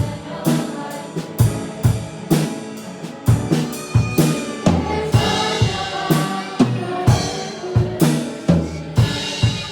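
Live worship-band music: a drum kit playing a steady beat, snare and bass drum hitting about twice a second, over sustained piano chords.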